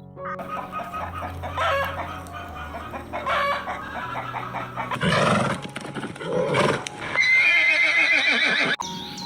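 A horse whinnying in several trilling calls, with a rooster crowing near the end.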